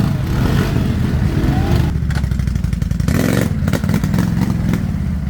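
ATV engine running steadily, with a brief burst of noise about three seconds in.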